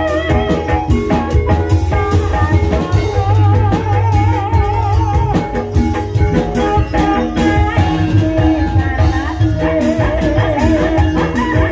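Banyumasan gamelan music playing gending ebeg to accompany the horse dance. Drum strokes sound over steady metallophone tones, and a melodic line wavers with a strong vibrato.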